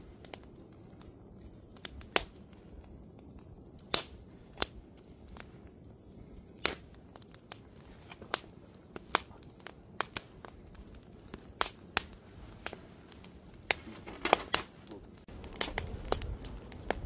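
Wood campfire crackling: sharp, irregular pops and snaps over a low steady hiss, the background growing louder about three-quarters of the way through.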